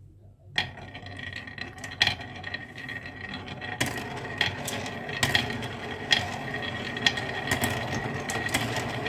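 Marbles rolling and clattering down a toy marble run track, starting about half a second in, with a steady rolling rattle and irregular sharp clicks as they knock against the track and each other.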